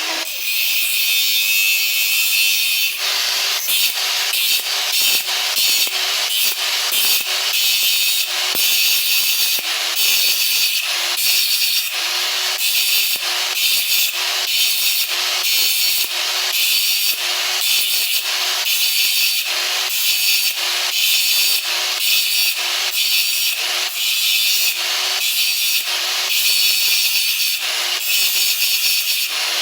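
Hand tool cutting in steady back-and-forth strokes, about one a second, each stroke a high scraping hiss.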